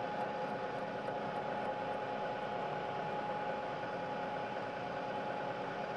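Milling machine running steadily as its cutter is fed back across the metal part, taking a light cut. The metal is being removed because the machine and tool deflected during the roughing cut just before.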